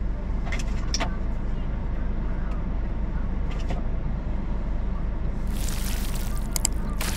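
Car idling, heard from inside the cabin as a steady low rumble. A few light clicks sound over it, and a rustling burst with more clicks comes near the end.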